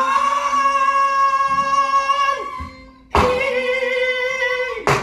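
Korean Namdo folk song (minyo) sung solo: a long held, slightly wavering note fades out about two and a half seconds in. A new phrase starts about three seconds in with a sharp percussive stroke and slides down in pitch, and another stroke comes near the end.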